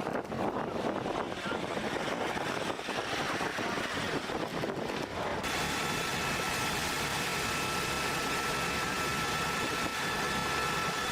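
Engine noise over a dense steady rush. After a cut about five seconds in, a steady high whine of several tones joins it.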